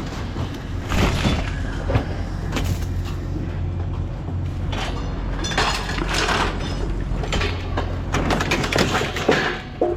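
Vehicle running with a steady low rumble heard from inside the cab, with several short noisy rattles and swishes along the way.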